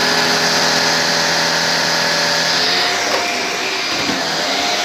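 Shark Lift-Away NV340 upright vacuum cleaner running, its motor and spinning brushroll giving a steady whine and hiss. About three seconds in, the sound changes: the high hiss falls away and the pitch shifts.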